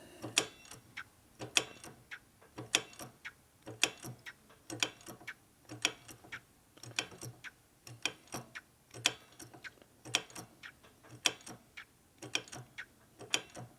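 Repeated light mechanical clicks and clacks, roughly one a second, from pumping while bleeding a motorcycle's hydraulic brakes: air is being pushed out of a dry brake line.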